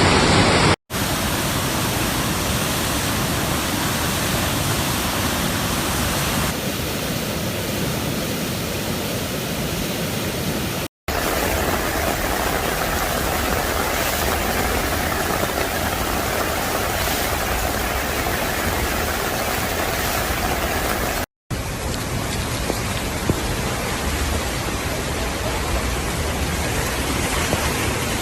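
Steady, dense rushing noise of a heavy rainstorm, in several stretches cut off by brief silent gaps: about a second in, at about eleven seconds, and at about twenty-one seconds.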